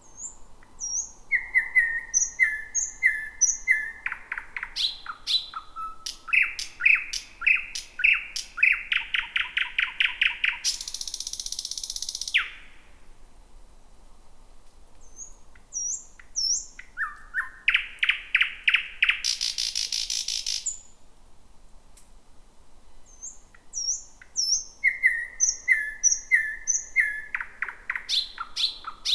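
Thrush nightingale singing: phrases of high whistled notes that build into fast series of loud repeated notes, two of them ending in a harsh rattle about two seconds long. A third phrase begins near the end.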